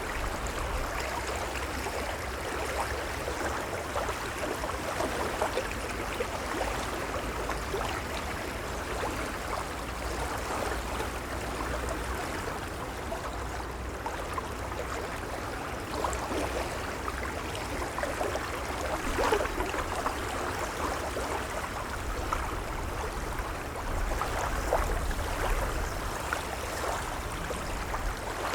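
Gentle waves lapping, a continuous wash of moving water with small splashes and a low rumble beneath.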